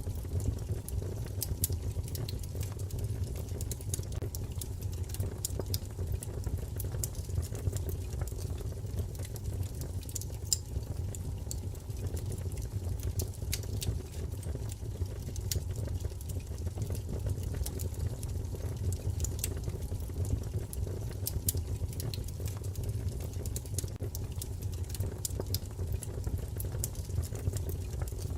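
Wood fire crackling in a fireplace: a steady low rumble of flame with frequent small, sharp crackles and pops scattered throughout.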